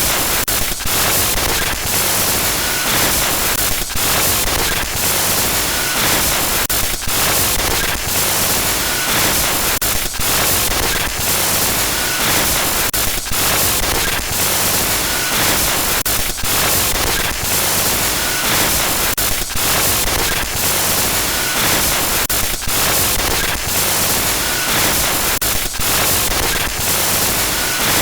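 Glitch noise sound effect: loud, harsh static hiss that stutters, cutting out briefly every second or so, with faint short beeps now and then.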